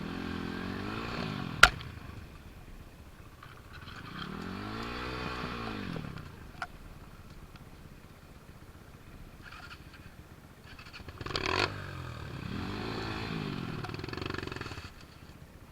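A small motorcycle engine revving up and falling back three times, with a sharp metallic click early on and a clattering burst near the middle.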